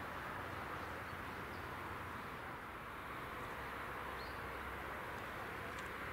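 Steady, even rushing noise of a train still some way off, approaching the level crossing, with a faint bird chirp about four seconds in.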